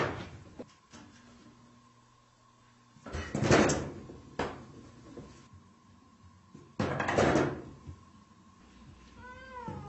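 A cat throwing itself at a wooden-framed sliding door, which rattles in its frame in two short bursts. A cat meows briefly near the end.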